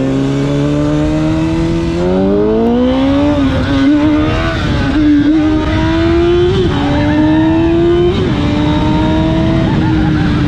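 Honda CBR1000 sportbike's inline-four engine pulling hard, its pitch climbing steadily with a brief dip at each of about three gear changes, then falling away near the end as the throttle eases off, over rushing wind noise.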